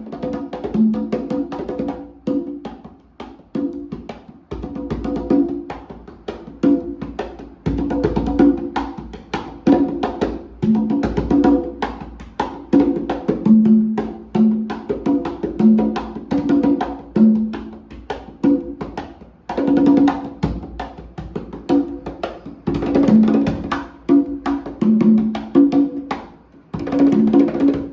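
CMC Prelude congas played by hand in a steady rhythmic pattern. The strokes alternate between ringing open tones on drums of different pitch and short, sharp strokes.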